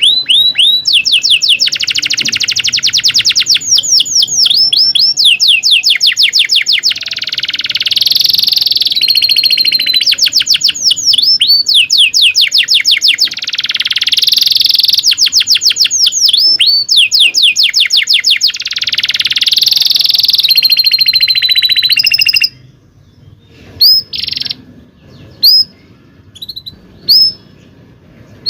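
Domestic canary singing a long, loud song of rapid repeated chirps and rolling trills. The song breaks off about 22 seconds in, leaving only a few short separate calls.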